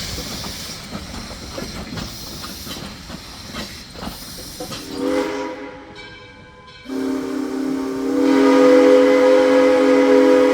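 Steam whistle of a 2-8-0 steam locomotive, blown briefly about five seconds in and then in a long, loud blast from about seven seconds on. Before it come a few seconds of steam hissing with irregular knocks.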